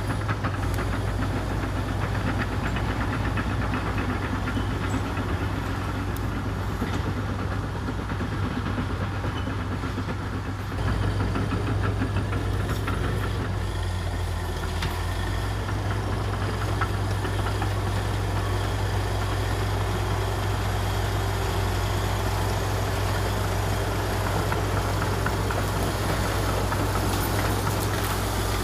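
Diesel engine of a Komatsu D61EX bulldozer running steadily under work, with a deep low hum that grows louder about eleven seconds in.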